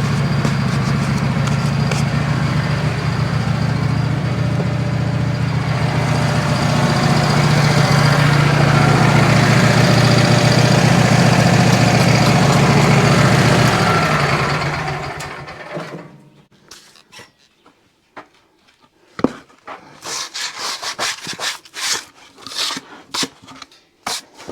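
Wood-Mizer LT15 band sawmill running through a cut in a maple log, a steady machine drone with the band blade's hiss, winding down and stopping about 15 seconds in. After that come scattered sharp knocks and scraping of wood.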